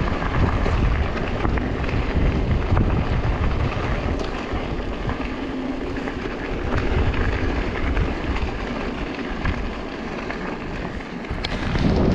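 Mountain bike riding down a bike-park trail: tyres rolling over dirt with a steady low rumble of wind on the microphone, and scattered clicks and rattles from the bike over bumps.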